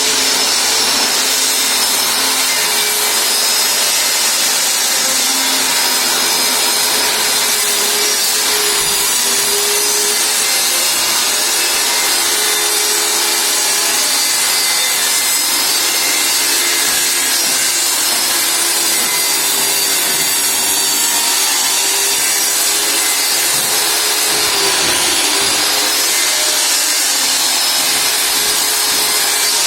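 Electric circular saw cutting through plywood: a steady, loud run of motor and blade noise, its whine wavering slightly in pitch as the load on the blade changes.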